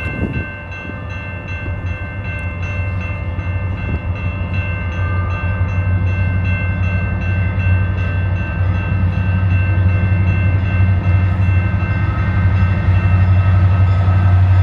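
Two CN SD75I diesel locomotives, each with an EMD 16-cylinder 710 engine, lead a train in with a steady low diesel rumble that grows louder as they approach. Over it runs a steady ringing of several held tones, with a faint regular ticking about twice a second early on.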